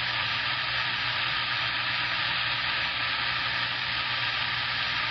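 CB radio receiver static on the 11-metre band: a steady, even hiss of an open channel between transmissions, with a faint steady tone under it.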